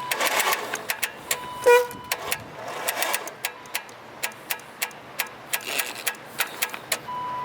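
Rapid ticking clicks, about three to four a second and slightly uneven, with a steady beep tone coming in near the end.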